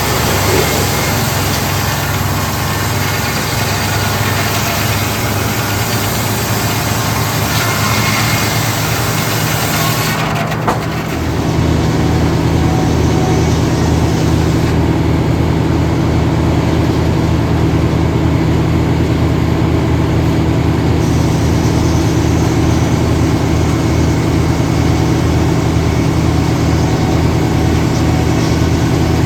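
Old circle sawmill running, its engine a steady low drone under a loud rushing noise; about ten seconds in the rushing noise drops away abruptly and the engine's steady hum is left.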